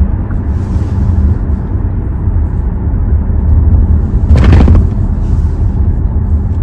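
Hyundai Tucson on the move: a steady low rumble of engine, exhaust and road noise, with a brief louder rush of noise about four and a half seconds in.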